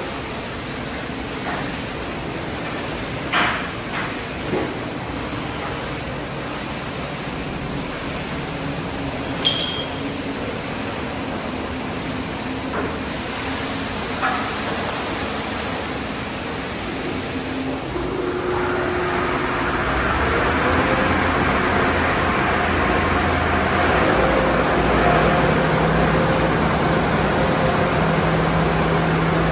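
Car wash tunnel equipment running with a steady noise and a few knocks and clinks. About two thirds of the way through, a louder spraying hiss builds up over steady motor hum tones.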